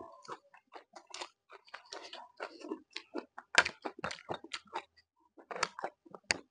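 Close-miked mukbang chewing: a mouth eating food, with irregular wet clicks and smacks, the loudest about three and a half seconds in.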